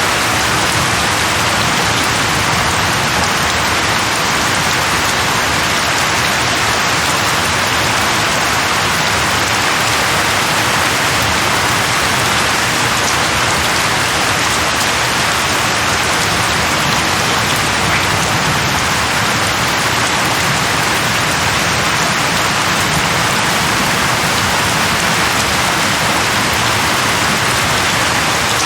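Steady heavy rain falling and pattering on surfaces, an even hiss without pauses.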